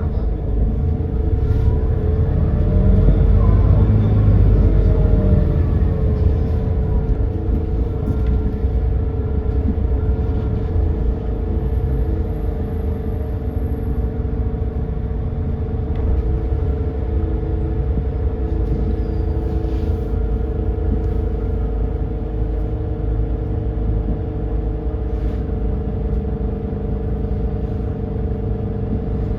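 Edison Motors Smart 110G city bus with its GX12P natural-gas engine running, heard from inside the cabin while driving. The engine rumble rises about two seconds in, then eases off by about six seconds. A steady whine runs underneath throughout.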